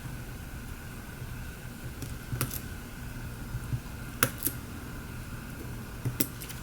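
A few sharp little clicks and taps of a plastic pry tool and small phone parts being handled while a smartphone is taken apart, the loudest a little past the middle and a quick pair near the end, over a steady low hum.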